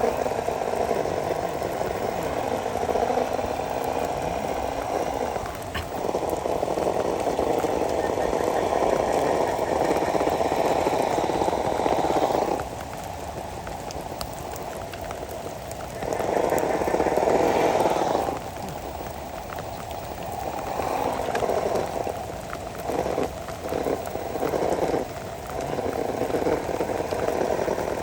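Scale RC crawler's electric motor and drivetrain running in bursts as the throttle is worked, with long runs broken by pauses about halfway through and a choppy stop-start stretch near the end while the truck grinds through mud. Rain falls steadily behind it.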